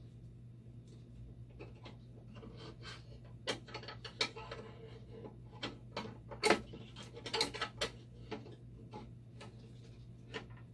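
Irregular clicks and light knocks of small parts and a circuit board being handled and fitted back into a dialysis machine, over a steady low hum.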